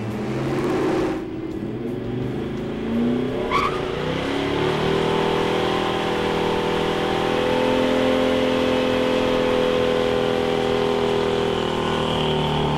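1969 AMC Hurst SC/Rambler's 390 V8 held at high revs during a burnout, rear tyres spinning in smoke. The revs climb over the first few seconds, with a brief rising squeal about three and a half seconds in, then hold steady.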